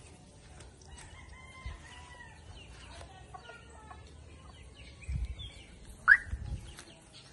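Birds calling: scattered short chirps and clucks, with one loud, sharply rising call about six seconds in. There are dull low thumps just before and just after it.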